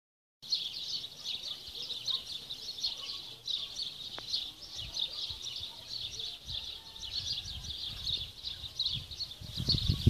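A dense chorus of many small birds chirping and twittering without a break, high-pitched. A low rumble comes in near the end.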